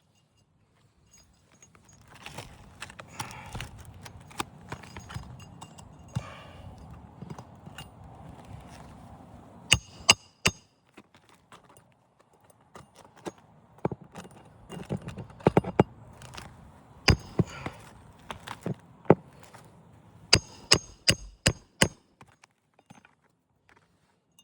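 Hammer strikes on roofing nails in asphalt shingles: sharp hits in quick groups of two to four, through the second half. Several seconds of shingles scraping and rustling come before them.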